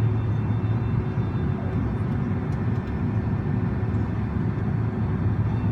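Steady low rumble and hum of a Boeing 767-400ER's engines, even throughout with no sudden events.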